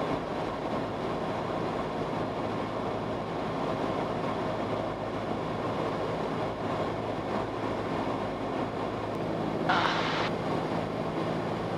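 Cabin noise of a Cessna 172S on final approach: the four-cylinder Lycoming IO-360 engine running steadily at reduced power, with airflow, full flaps set. A brief hiss about ten seconds in.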